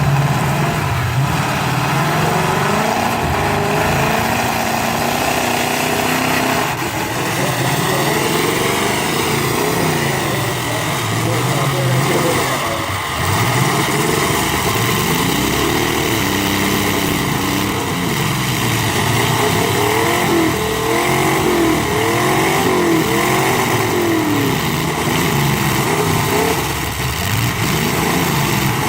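Several demolition-derby stock car and pickup truck engines revving, their pitch rising and falling over and over as they drive and ram.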